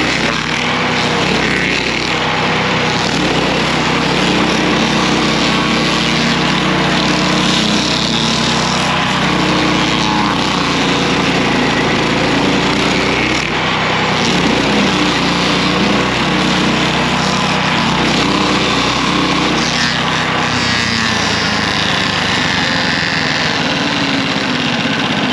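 MechMaxx SG380 stump grinder's gasoline engine running steadily under load while the cutter wheel grinds into a stump. The engine sound changes about twenty seconds in.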